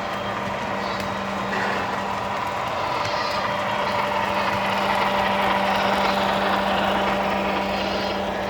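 O scale three-rail model train rolling along metal track, its wheels and cars making a steady rumble with faint clicks. It grows louder about halfway through as it comes near, over a constant low hum.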